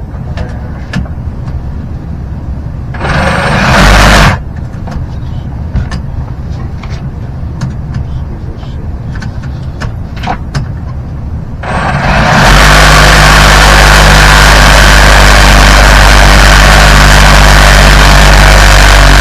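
Battery-powered saw cutting 3-inch drain pipe: a brief run of the saw about three seconds in, a few light knocks, then near the end the saw starts and runs steadily through the cut.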